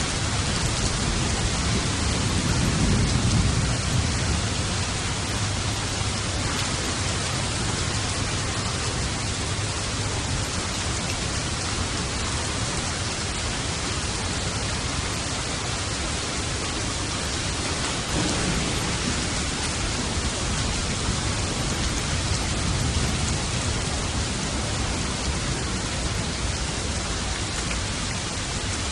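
Steady heavy rain falling, with a low rumble of distant thunder swelling and fading a few seconds in, and a fainter rumble later on.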